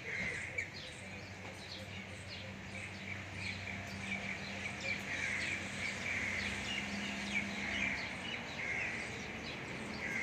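Many small birds chirping at once, a dense run of quick, high, downward-sliding chirps, over a low steady hum that fades about two seconds before the end.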